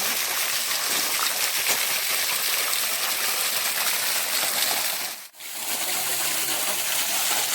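Spring water gushing steadily from the tap of an artesian well fed by underground pressure, a continuous splashing hiss. The sound drops out for a moment about five seconds in.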